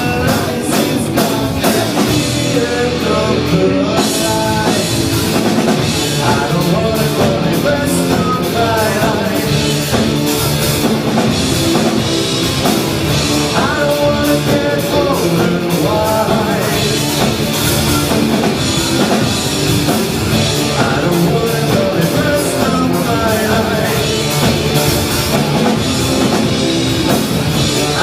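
Rock band playing live: drum kit and band with a sung vocal line.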